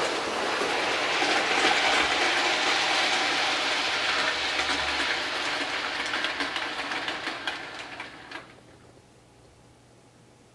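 OO gauge model Class 47 diesel locomotive running along the track: a steady rush of motor and wheel noise with quick clicks over rail joints, dying away about eight seconds in.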